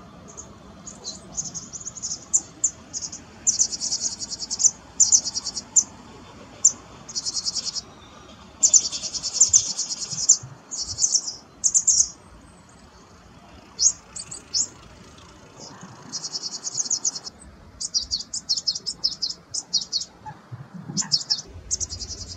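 Small songbird calling: many short high chirps mixed with several buzzy rapid trills of about a second each, repeated throughout.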